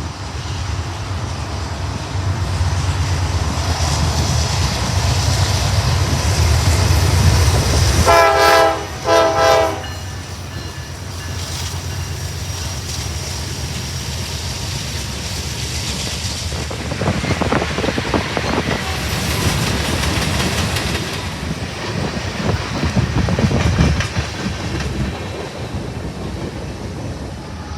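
A train passing close by. There is a heavy low locomotive rumble, then two short blasts of the locomotive's horn about eight seconds in, followed by the cars' wheels clattering over the rail joints.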